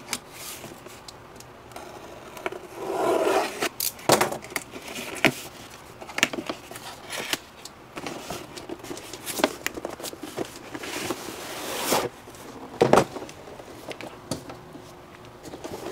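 Hands unpacking a boxed laptop: cardboard and plastic packaging being handled, with scraping and rustling and scattered sharp clicks and knocks, and a longer scraping rustle about three-quarters of the way through.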